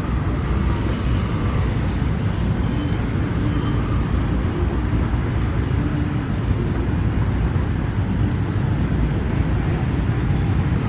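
Steady street noise of road traffic, mostly a low rumble with no distinct events standing out.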